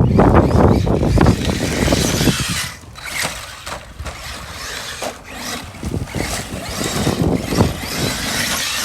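Arma Mojave 6S RC truck running on a dirt track under heavy wind rumble on the microphone. The rumble drops off about two seconds in, leaving a lighter hiss with scattered clicks and the brief rising and falling whine of the electric motor.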